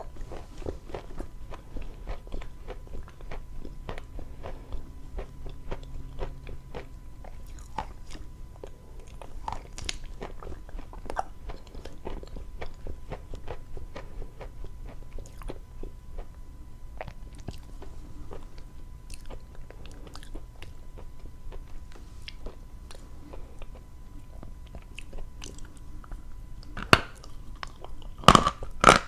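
Dry chalk being chewed close to the microphone: a steady run of small crunchy clicks, with a few loud, crisp bites near the end.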